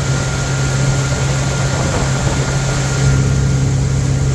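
Bayliner motorboat's engine running steadily under way: a constant low hum with a steady hiss of water and wind over it.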